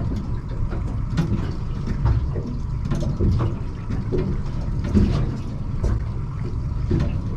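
Water slapping and sloshing against the hull of a drifting fishing boat in short irregular splashes, over a steady low rumble.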